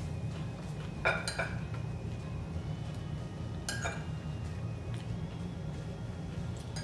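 Dishes and utensils clinking a few times, twice in quick succession about a second in and once near four seconds, each with a short ring, over a steady low hum.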